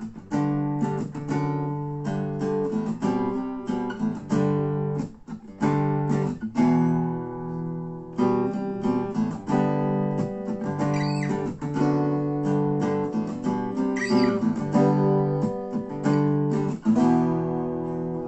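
Acoustic guitar playing the instrumental intro of a song, chords strummed in a steady rhythm.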